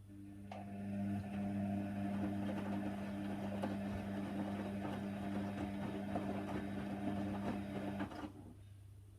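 Hoover Nextra HNWL 7146 washer dryer's drum motor turning the drum for one tumble, a steady hum with laundry and water swishing inside, building up over the first second and stopping suddenly about eight seconds in.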